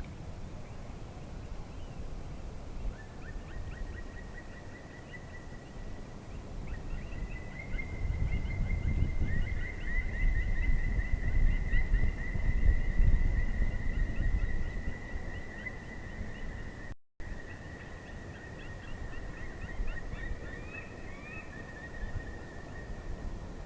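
Black woodpeckers calling: a long, steady high note held for most of the time, with rapid short notes over it. Wind rumbles on the microphone.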